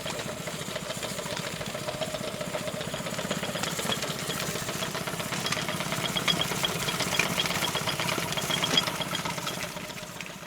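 An engine running steadily with a rapid knocking beat, fading out near the end.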